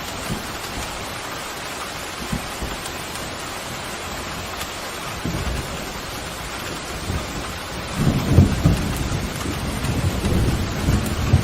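Steady heavy rain, with thunder rolling in: a low rumble starts about five seconds in and grows louder from about eight seconds.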